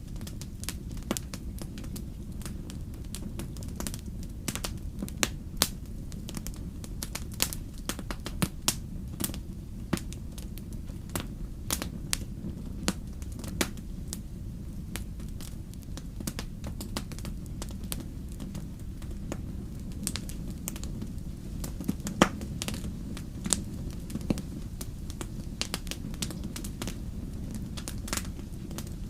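Fire crackling: irregular sharp pops and snaps, several a second, over a steady low rumble, with one louder pop a little over 22 seconds in.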